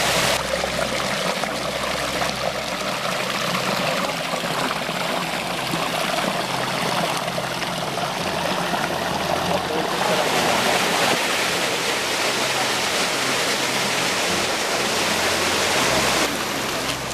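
Water rushing steadily down a cascade of a mountain stream, a dense continuous roar whose tone shifts slightly a few times.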